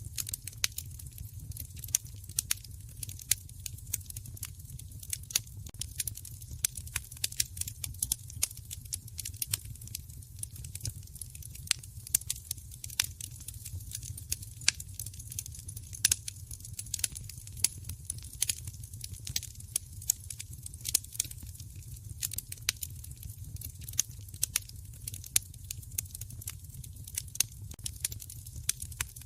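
Wood fire in a fireplace crackling, with irregular sharp pops and snaps several times a second over a low steady rumble.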